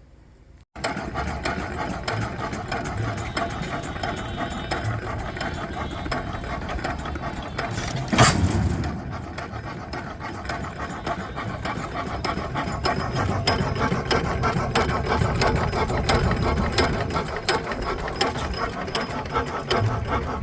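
8 HP Pattin Brothers stationary gas engine running slowly, with slow, even low beats and a steady mechanical clatter. There is a loud bang about eight seconds in.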